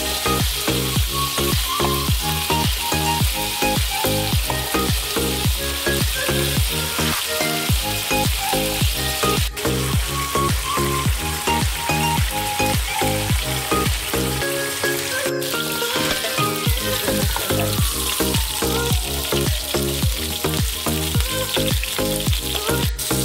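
Chicken pieces sizzling as they fry in butter in a pan, with background music carrying a steady beat over the sizzle.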